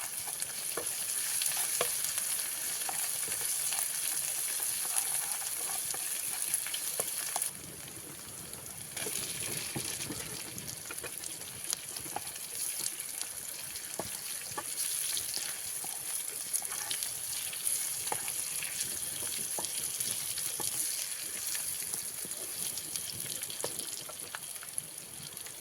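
Spice paste sizzling and frying in hot oil in a pan, with many small clicks from stirring. The sizzle drops off briefly about seven seconds in, then comes back.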